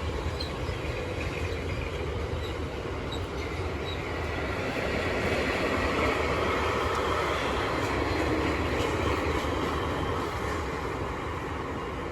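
Freight train rolling past, its wagons rumbling on the rails. It grows louder a few seconds in and eases off near the end.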